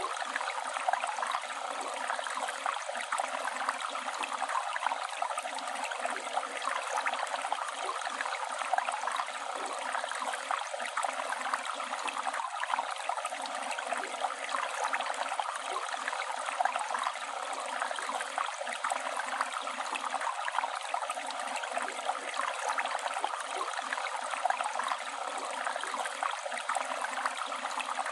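Flowing river: running water, steady and unbroken, bright, with no low rumble.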